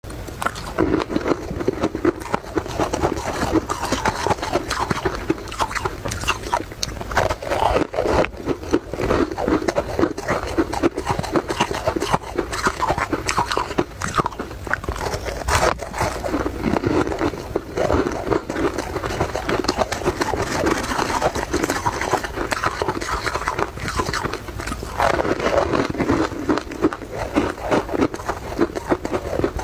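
A person biting into and chewing a crumbly, crisp white food close to the microphone: dense, continuous fine crunching and crackling, coming in louder spells of chewing.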